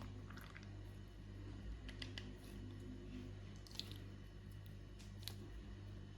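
Faint squishing and a few small wet clicks from the gooey filling of a cut-open stress toy being handled, over a steady low hum.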